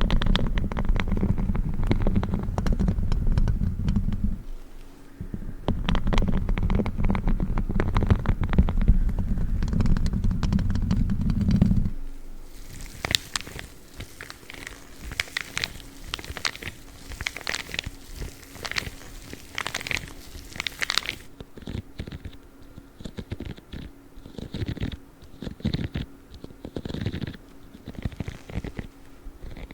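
Spiky gloves rubbing and scratching on the microphone. For the first twelve seconds it is a loud deep rubbing with dense crackle, with a brief pause around four seconds in. After that it turns to lighter, higher scratching and scattered taps.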